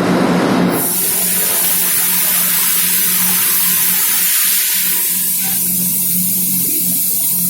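Compressed air hissing loudly and steadily from an open valve, starting about a second in, over a steady low machinery hum.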